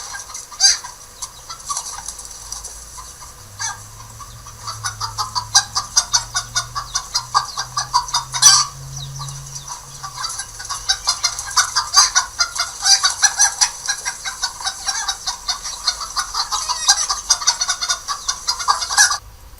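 A flock of birds calling: many rapid, overlapping short calls that cut off suddenly near the end.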